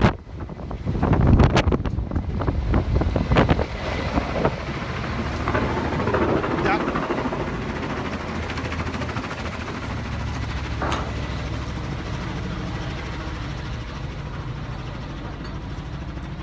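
Kamov helicopter hovering directly overhead, its rotor downwash buffeting the microphone in heavy gusts for the first few seconds. The noise then settles into steady rotor and engine noise with a low hum.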